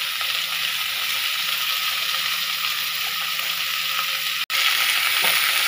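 Freshly added pumpkin pieces sizzling in hot oil with fried onions in a frying pan: a steady hiss with a momentary break about four and a half seconds in, a little louder after it.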